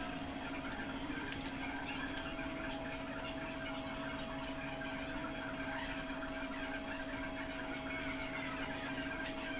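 A machine running steadily with an even hum: two constant tones over a noisy haze, the higher tone dropping slightly in pitch a second or two in.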